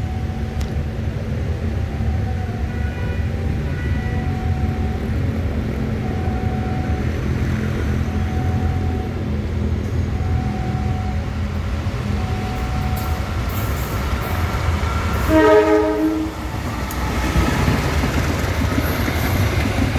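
KAI diesel locomotive approaching with a steady low rumble. About three-quarters of the way through it sounds its horn for about a second, then passes close with rising engine and wheel noise.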